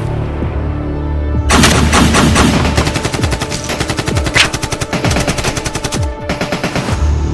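Rapid automatic gunfire in long bursts of many shots, beginning about a second and a half in and cutting off suddenly near the end, over a low musical drone. This is designed film battle sound.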